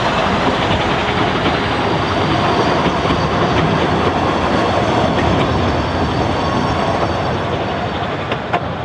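Narrow-gauge train running on the line, a steady loud rumble and rattle of wheels on rails, with a sharp clank near the end.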